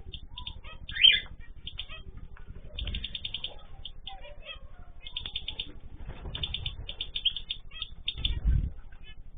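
A mixed flock of small cage birds (cockatiels, zebra finches, canaries and goldfinches) chirping and calling in rapid overlapping notes, with one loud sweeping call about a second in. Wings flap in short flurries about three times.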